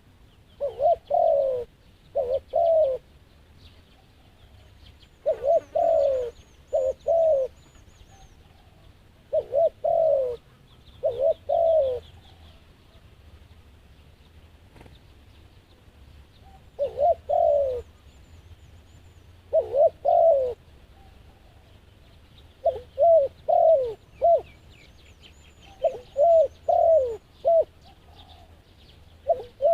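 Doves cooing: short phrases of two to four falling coos, repeated every two to three seconds with a longer gap about halfway through. Faint high chirps of small birds sound behind them.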